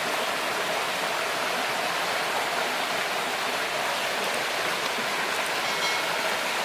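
River water rushing, a steady even noise with no change throughout.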